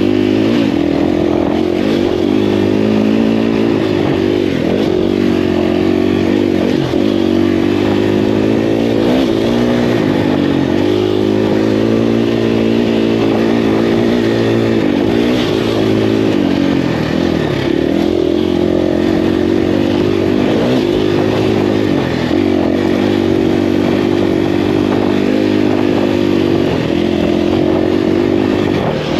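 Dirt bike engine running hard on a trail ride, its pitch dipping and climbing again several times as the throttle is rolled off and back on.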